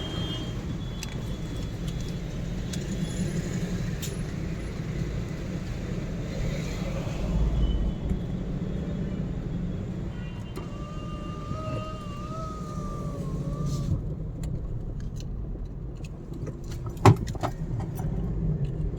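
Steady low engine and road rumble heard inside a car. A faint wavering tone comes in from about ten to fourteen seconds in, and a single sharp knock, the loudest sound, comes about seventeen seconds in.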